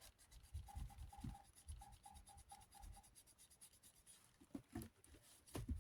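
Paper towel wet with cleaning spray scrubbing back and forth on the fan's surface to lift permanent-marker writing, in short, irregular rubbing strokes.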